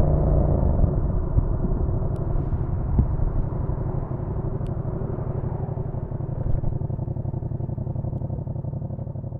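Yamaha MT-07's parallel-twin engine easing off the throttle in the first second or so, then running steadily at low revs with a pulsing beat, gradually getting quieter.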